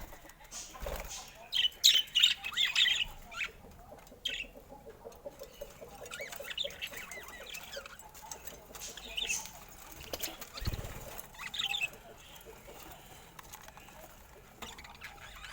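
Budgerigars chirping and chattering in short, scattered calls, with a run of quick warbling notes in the middle and a couple of soft thumps.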